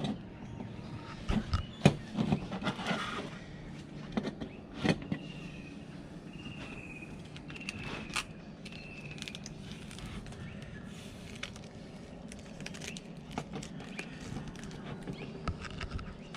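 Knocks and clicks of wooden hive boxes being handled, strongest in the first five seconds. A bird calls four short, slightly falling notes in the background, a little over a second apart.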